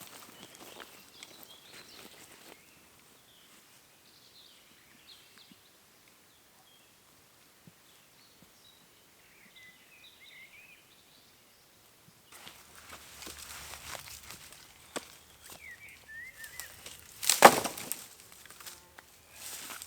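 Quiet outdoor ambience with faint short chirps of small birds, then a stretch of rustling and handling noise with scattered clicks and one loud crunching knock about three seconds before the end.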